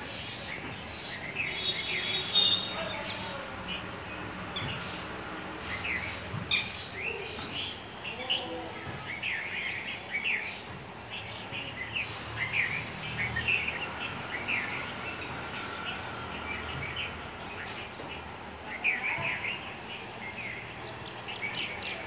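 Several birds chirping in many short, overlapping calls, over a steady background of outdoor noise.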